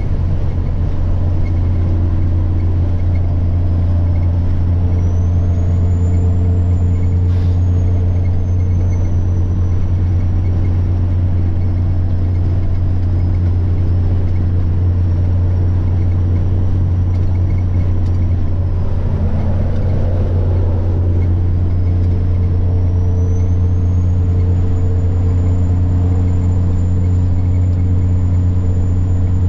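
Semi-truck diesel engine running steadily under way, with a high turbocharger whine that rises in pitch about five seconds in, sags, then climbs again a little past twenty seconds and holds high. A brief rush of noise comes about twenty seconds in.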